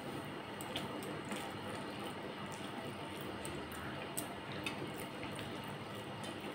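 Close-up eating sounds: wet chewing and smacking of a mouthful of rice and fish curry, with scattered small clicks and fingers working the rice on a steel plate.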